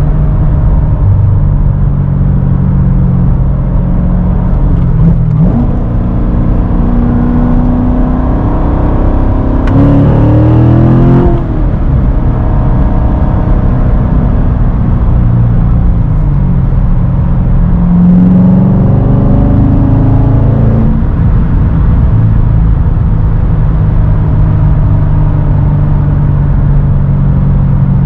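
Chevrolet C7 Corvette's 6.2-litre V8 through its NPP dual-mode performance exhaust while driving, running steadily with a brief rise in revs about five seconds in, a sharper pull that rises and falls away around ten seconds, and a longer rising pull in the second half before the revs drop back.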